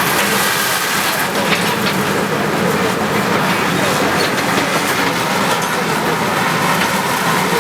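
Bulldozer working, its engine running and its crawler tracks clattering steadily, with no let-up.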